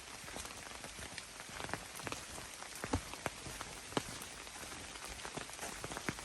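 Rain falling in a bamboo grove: a steady hiss of rain with many scattered drops tapping, two of them sharper and louder about three and four seconds in.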